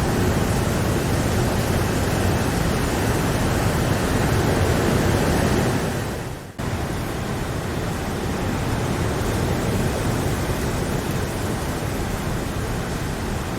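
Steady hiss of falling rain. About six seconds in it fades away briefly and then cuts back in abruptly, a little quieter, like the seam of a looped recording.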